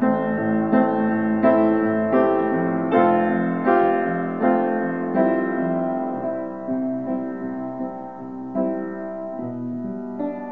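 Solo piano playing a slow, gentle melody over sustained chords, notes struck at an even pace, softening a little past the middle and growing again near the end.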